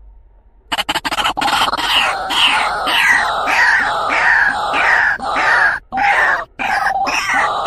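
White-breasted waterhen (ruak-ruak) calling: a loud, harsh run of quickly repeated notes that starts just under a second in and breaks off briefly a couple of times.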